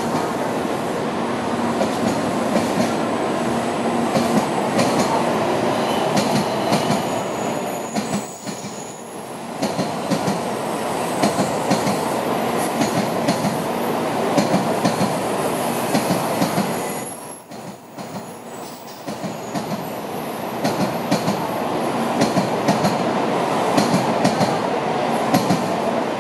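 Tokaido Shinkansen N700-series trainsets rolling slowly along the station tracks: a steady rumble of wheels on rail with many small clicks and knocks over joints and points. The noise eases briefly about eight seconds in and again about seventeen seconds in.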